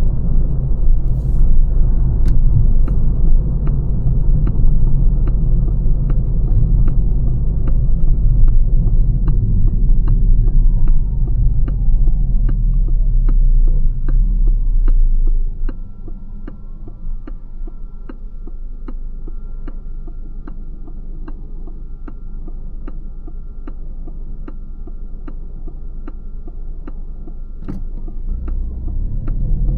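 Inside a Lancia Ypsilon's cabin: road and tyre rumble with the turn indicator ticking about one and a half times a second. About halfway through the rumble drops sharply as the car slows to a crawl or stop after a falling motor whine, the indicator ticking on over a faint steady tone, and the rumble builds again near the end as it pulls away.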